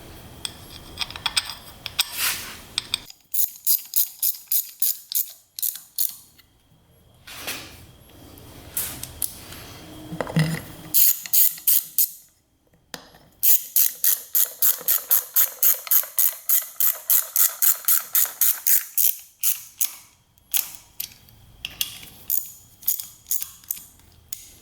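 Hand ratchet clicking as it turns a thread tap, re-cutting threads in a drilled-out bolt hole. The clicks come in several runs of about four to five a second, with short pauses between strokes.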